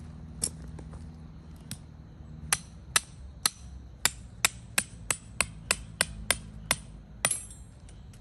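Hammer blows, sharp and clicky: two single strikes, then from about two and a half seconds in a quick run of a dozen or so, two to three a second, ending with one last blow.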